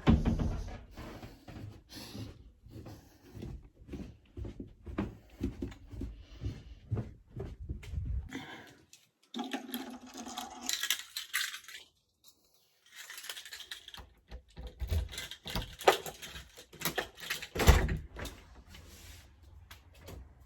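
Irregular knocks, clicks and rustles of handling and moving about, broken twice by a second or so of near silence.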